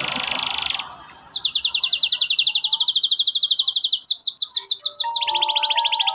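Domestic canary singing a rapid rolling song: a short buzzy trill, then a long run of quick repeated high notes, about ten a second, switching near the end to a faster, lower trill.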